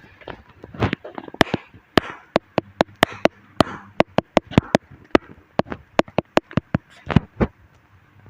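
A rapid, irregular run of sharp clicks and knocks, several a second, with a short pause about seven seconds in.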